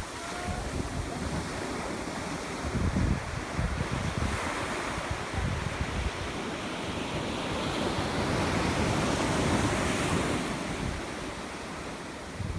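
Ocean surf washing in on the beach, swelling through the middle and easing near the end, with wind buffeting the microphone in low rumbling gusts.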